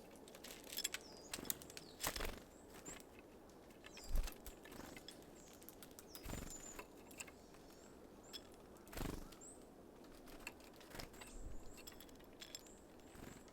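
Small birds at a feeder: short, high call notes that drop in pitch, repeated throughout, with sharp clicks and several dull thumps from the birds working at the feeder.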